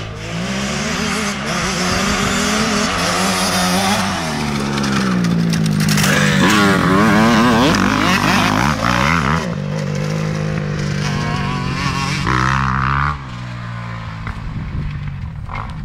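Motocross bike engines revving hard, pitch climbing and dropping repeatedly through throttle and gear changes, with more than one engine overlapping in the middle; the sound falls away about thirteen seconds in.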